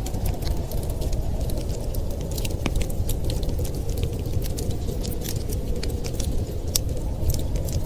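Wood fire crackling in a fireplace, with frequent irregular sharp pops and snaps over a steady low rush of wind.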